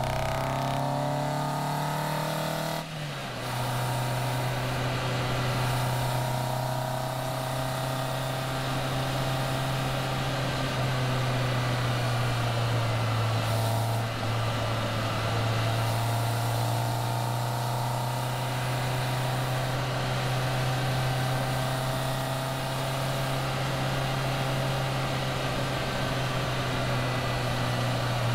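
Caterham Seven's engine under way on the open road, heard over the bonnet with wind noise from the open car. The engine note rises at the start and dips briefly about three seconds in, like a gear change, then holds a steady cruise with one more short dip around the middle.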